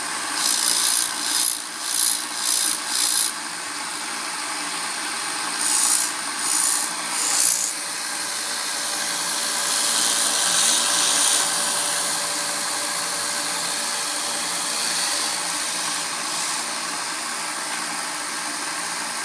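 Harbor Freight belt sander running on an 80-grit belt, with the steel tip of a knife blade pressed to the belt in short grinding passes to sharpen the point: a quick run of about five strokes, three more a few seconds later, then a longer, softer pass.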